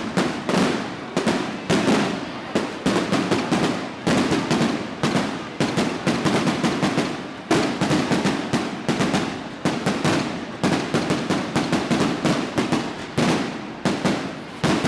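A long string of firecrackers going off: rapid, continuous bangs many times a second in uneven clusters, without a pause.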